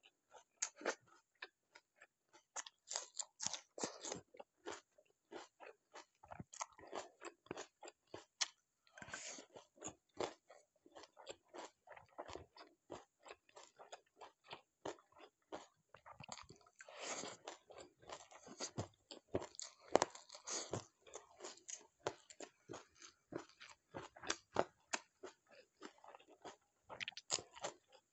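A person chewing and crunching food: a fast, continuous run of crisp mouth clicks and bites, with a louder, busier stretch about two-thirds of the way through.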